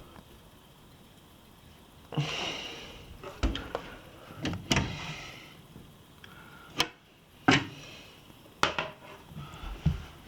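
Hoover tumble dryer being handled: a series of sharp clicks and knocks, like its door being opened and shut, with a brief rustle about two seconds in.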